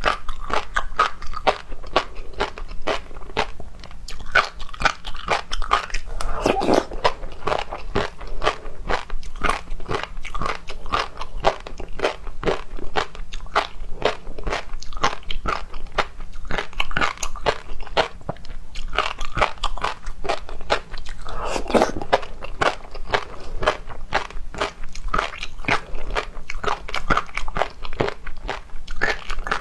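A person chewing seafood, with continuous fast crunching and wet clicking of the mouthful and two louder bites about 7 and 22 seconds in.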